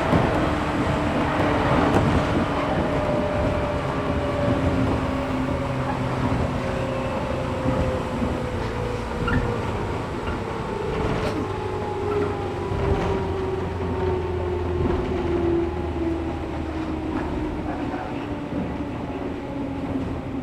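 Interior running sound of a JR 113 series 1500-subseries electric train: the traction motor and gear whine falls slowly and steadily in pitch as the train slows, over a constant rumble of wheels on rail. A few sharp clicks from rail joints come through.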